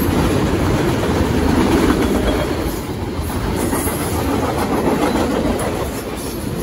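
Freight train of autorack cars rolling past at speed, its wheels running steadily on the rails.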